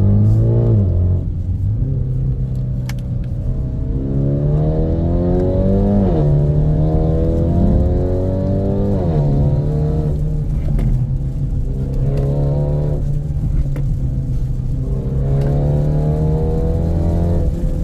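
BMW G20 330e's turbocharged four-cylinder engine running through an aftermarket Euro Arts stainless exhaust with valved muffler. It idles and is revved several times, the pitch climbing and falling with each rev.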